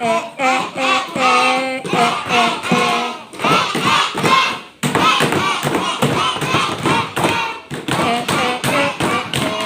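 A group of children singing a phonics letter-sound song in unison, with a steady beat of thumps or claps under the singing.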